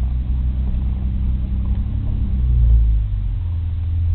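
A steady low engine-like rumble, with a brief swell a little under three seconds in.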